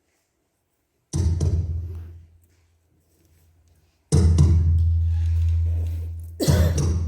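Music of deep drum hits: after about a second of silence, three heavy booms, each ringing on low and fading away over a second or two.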